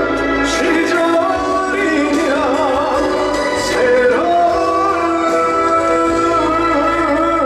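Live trot song: a male voice sings long, wavering notes with vibrato over band accompaniment.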